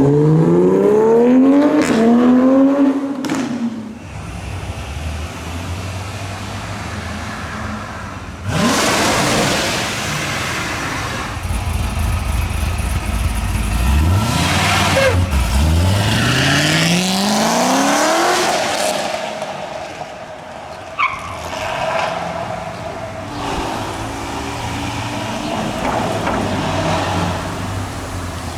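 Several supercars accelerating hard, their engines rising in pitch through the revs. There is a climbing rev at the start, a loud rush about a third of the way in, and two more rising sweeps in the middle.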